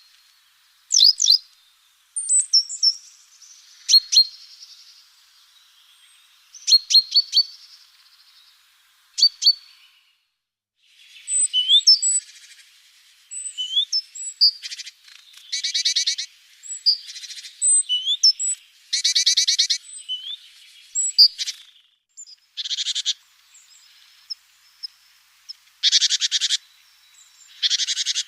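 Small birds chirping: quick, sharp high chirps in the first half, then several short, buzzy rattling calls repeated at intervals through the second half.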